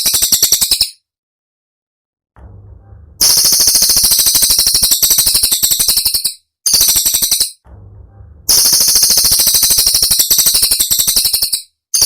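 Cililin songbird giving fast, rattling bursts of very high, sharp repeated notes, the rapid-fire 'tembakan' phrases, in about four bursts of one to three seconds with short pauses between.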